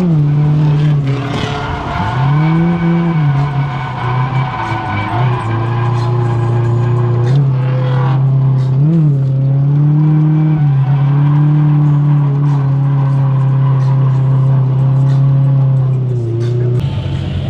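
Drift car engine held at high, near-steady revs with a few quick rises and dips in pitch, tyres squealing as the car slides; the revs drop near the end.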